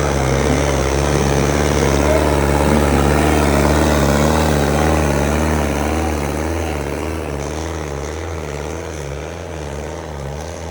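Sonalika tractor's diesel engine running hard under load, its pitch wavering up and down in a steady rhythm, easing off a little past the middle.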